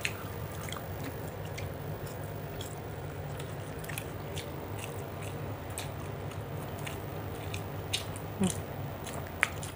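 A person chewing and biting food close to the microphone: irregular soft clicks and small crunches over a steady low hum.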